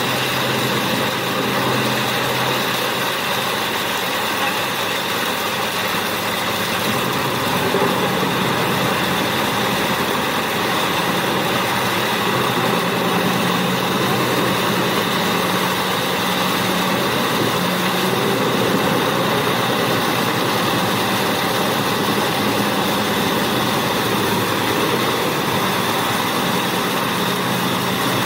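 Large industrial wood chipper running steadily: a constant heavy engine drone under a continuous noisy rush of the grinding machinery.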